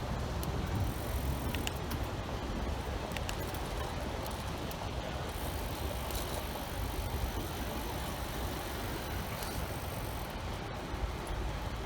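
Steady street ambience picked up from a moving bicycle: a continuous low rumble with traffic and tyre hiss.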